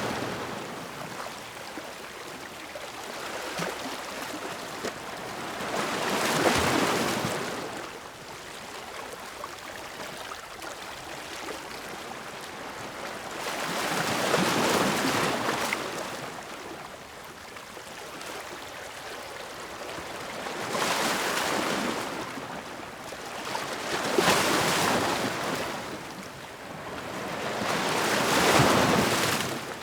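Ocean surf: waves break and wash in, five rising-and-falling surges of hissing water a few seconds apart, with a steady wash of water between them.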